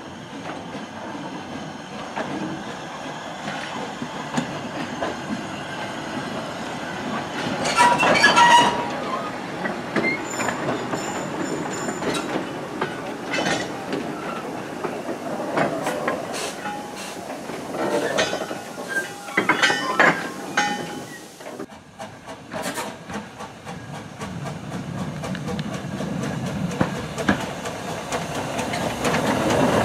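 Four-wheeled goods wagons behind an industrial saddle-tank steam locomotive rolling slowly along the track, wheels clacking over the rail joints, with short high squeals from the wheels. After a sudden break about two-thirds of the way in, a saddle-tank steam locomotive grows steadily louder as it comes closer.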